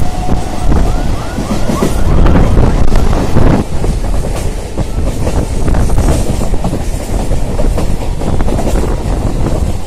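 Suburban EMU electric train running fast, with a steady rumble and rush of wheels and air and a rapid clatter of the wheels over rail joints and points.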